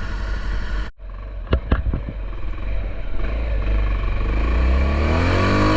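Honda XR650L's single-cylinder four-stroke engine running as the bike is ridden. The sound cuts out for an instant about a second in, and two sharp knocks follow. In the second half the engine rises steadily in pitch as it revs up.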